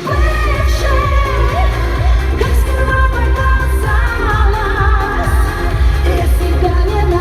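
Pop song with a woman singing a bending melody over a backing track with a steady, pulsing bass beat.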